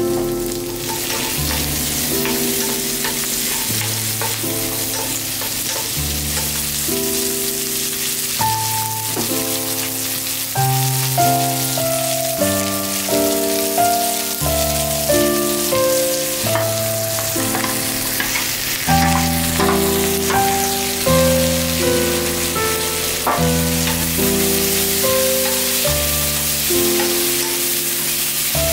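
Vegetables sizzling in melted butter in a frying pan, a steady hiss of frying. Background music with a melody of held notes plays alongside.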